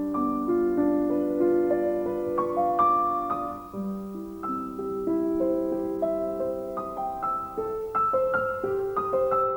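Background music: a soft piano playing slow, sustained chords and a melody of ringing notes.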